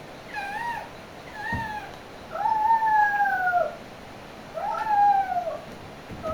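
A cat meowing: four drawn-out calls, each rising then falling in pitch, with the third the longest at about a second and a half and another starting at the end.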